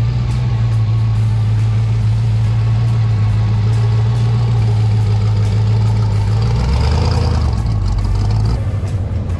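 A car engine idling with a steady low rumble, its pitch dropping a little about two-thirds of the way in.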